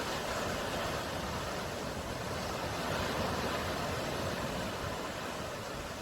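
Sea surf washing on the shore, a steady rushing hiss that swells slightly about halfway through.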